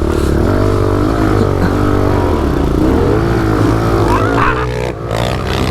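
Pit bike engine running under throttle while riding, its pitch rising and falling again and again as the rider revs and eases off.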